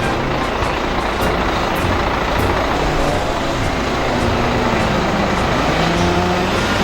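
A truck engine running, its pitch rising and falling.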